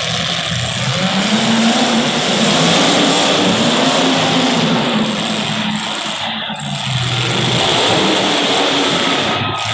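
Race car engines running at speed around a track, their pitch rising and falling repeatedly as the cars accelerate and pass.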